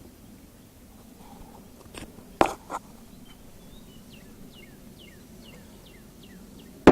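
Two sharp knocks about two and a half seconds in, then a bird giving a quick run of short down-slurred chirps, with another sharp knock at the very end.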